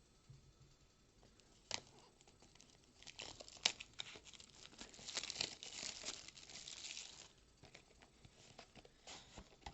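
Packaging of a trading-card prerelease pack being torn open and crinkled by hand: a couple of sharp clicks, then a few seconds of dense crackling and tearing that fades out near the end.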